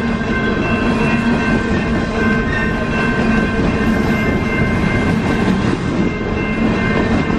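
Canadian Pacific coal cars rolling past at a grade crossing: a steady, loud rolling rumble of steel wheels on the rails, with a steady high-pitched squeal sounding over it.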